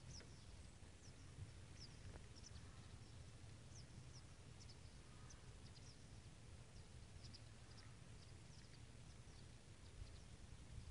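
Faint birdsong: many short, high chirps repeated throughout, over a low steady rumble.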